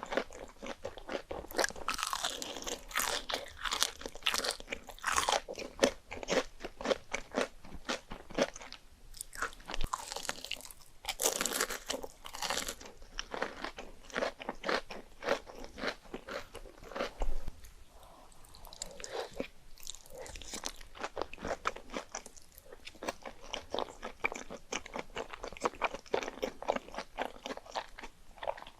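Close-miked ASMR eating sounds: crunchy bites and wet chewing, in dense irregular crunches with a louder stretch about halfway through.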